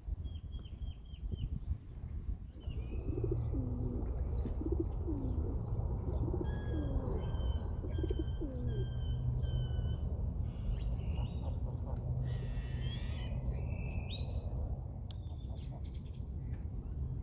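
Several birds calling around a park lake: short high chirps, a call repeated about five times a few seconds in, and lower curving calls over the first half, over a steady low rumble.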